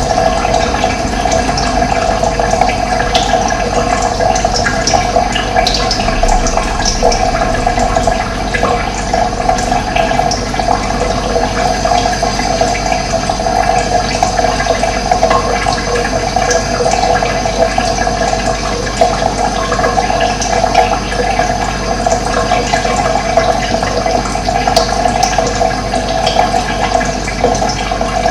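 Running water flowing steadily in a continuous rush, with short bird chirps now and then above it.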